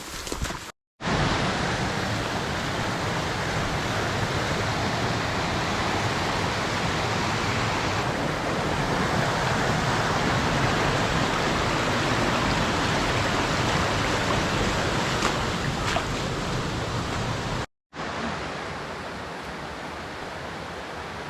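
Steady rushing noise of fast-running water, like a mountain stream or small waterfall close to the microphone. It is cut off abruptly twice, about a second in and near the end, and after the second cut it carries on quieter.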